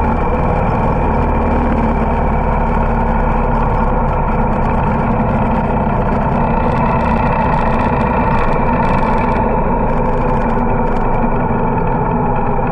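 Motorcycle engine running steadily while riding, mixed with constant wind and road rush.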